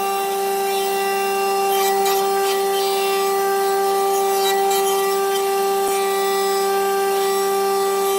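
A power tool working wood, running at a steady speed with a constant whine over a rasping, rubbing noise.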